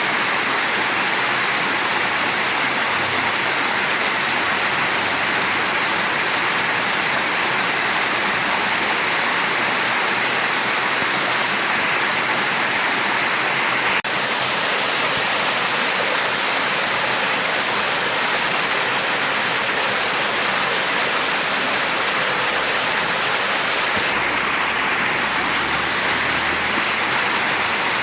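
Mountain stream rushing over rocks: a steady, dense hiss of flowing water.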